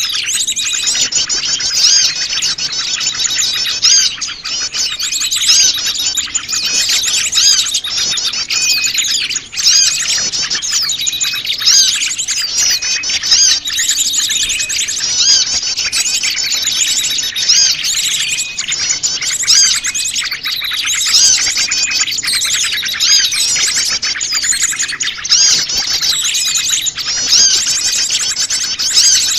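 Many small wild birds chirping and twittering together, a dense, unbroken mix of high overlapping calls and trills: a noisy mixed small-bird lure call for drawing wild birds in.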